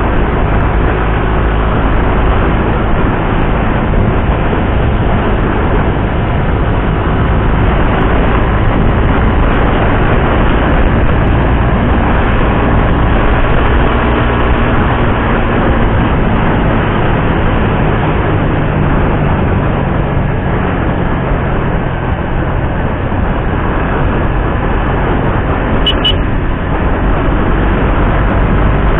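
Suzuki GSX-R150's single-cylinder engine running steadily while the motorcycle is ridden, under a loud even rush of riding noise.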